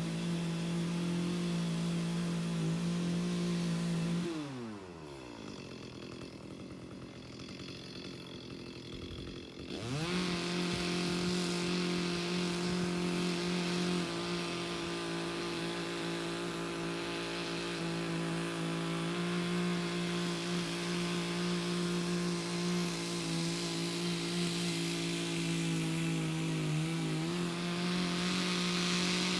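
Chainsaw engine running at high revs, then dropping sharply to a low idle about four seconds in. About six seconds later it revs back up and holds steady.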